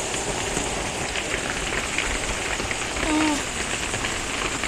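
Steady rain falling on a metal roof, an even hiss of many drops.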